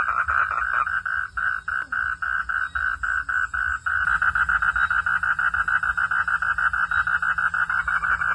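Frogs calling at night: a fast, even run of short repeated notes, about six a second, that grows denser and a little louder about four seconds in as more calls overlap.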